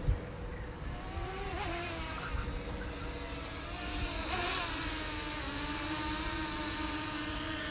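DJI Mini 2 drone's propellers whining in a steady tone that wavers, briefly bending in pitch about a second and a half in and again about four seconds in, as the motors work against strong wind. Wind buffets the microphone underneath.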